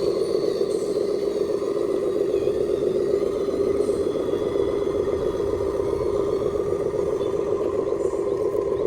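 Scale RC dump truck's electric drive motor and gearbox running at a steady speed, a constant whine with a gritty clatter and no change in pitch.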